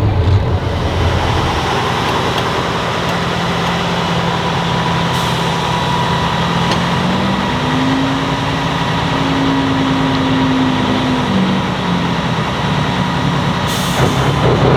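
Heavy off-road trial truck's engine running under load. About seven seconds in it revs up, holds the higher pitch for a few seconds, then eases back down.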